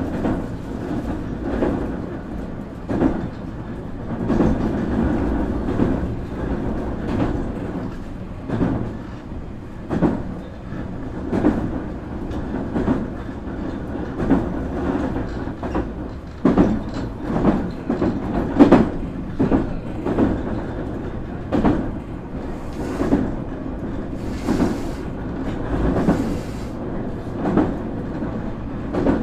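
Nankai 8300 series (IGBT) electric train running, heard from inside motor car MoHa 8361: wheels clacking over rail joints about once every second or so, over a steady running rumble.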